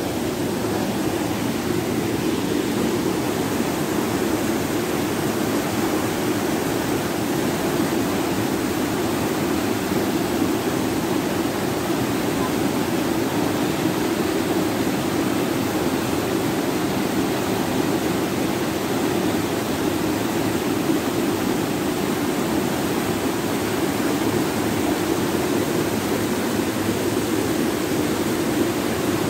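Rushing floodwater: a loud, steady, unbroken rush of fast-moving water.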